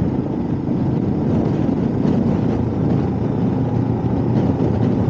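Motorcycle engine running steadily on the move, with road and wind noise.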